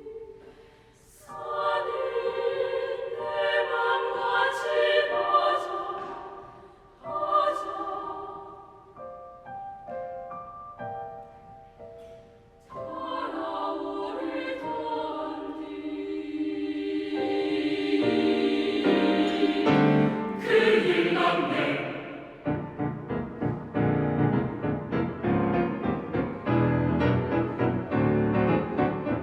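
A choir singing a Korean choral piece with piano accompaniment, in phrases that swell and pause. About 22 seconds in the voices stop and the piano carries on alone with fast repeated chords.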